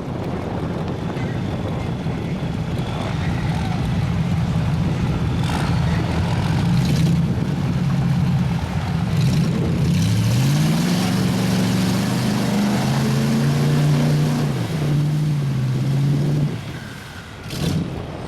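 Mud truck engine running under load. About ten seconds in it revs up, rising in pitch and holding high for several seconds, then drops off suddenly near the end.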